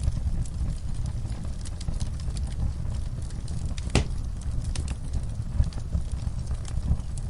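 Wood fire in a fireplace crackling over a steady low rumble of flames, with scattered small pops and one louder pop about four seconds in.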